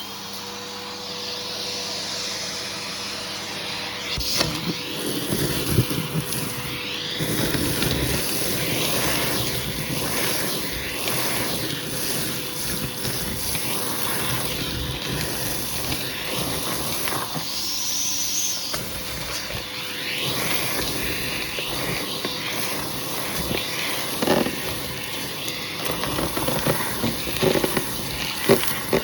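Hoover vacuum cleaner running with a hose tool worked over a shag rug: a steady suction noise and motor tone that surges and changes as the nozzle is pushed and lifted, with occasional short knocks of the tool.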